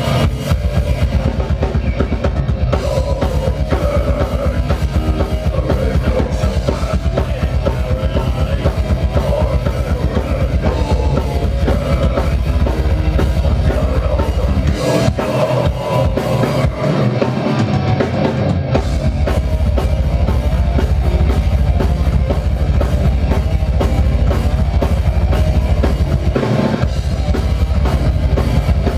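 Metal band playing live, the drum kit pounding a rapid, unbroken bass-drum beat under the full band. The low end drops out briefly about halfway through and again near the end.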